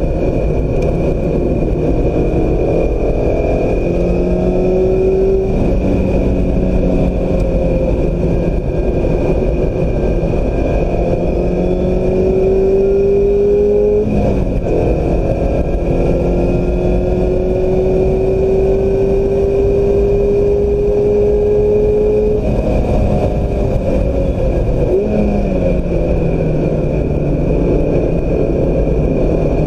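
Mazda MX-5 Miata's four-cylinder engine accelerating hard under track driving, its pitch climbing in long sweeps over steady road and wind noise. There is a quick upshift about fourteen seconds in. The driver lifts off about twenty-two seconds in, and the engine blips through downshifts a few seconds later before pulling again.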